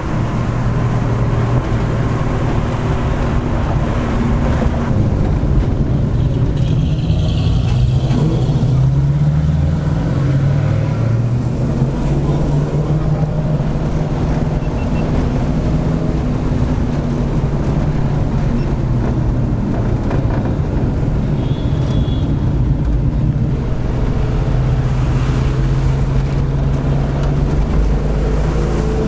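Car engine running on the road, a steady low drone whose pitch wavers up and down for a few seconds about a quarter of the way in.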